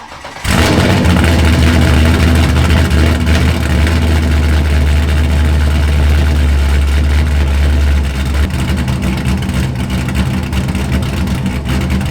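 Corvette drift car's race engine starting up about half a second in and then running loudly at a steady idle.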